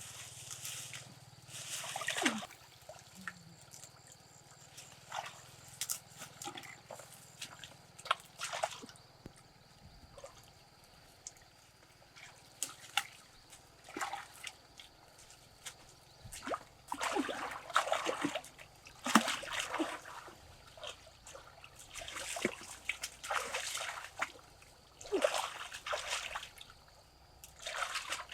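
Water splashing and sloshing in irregular bursts a second or two apart, with trickling between them.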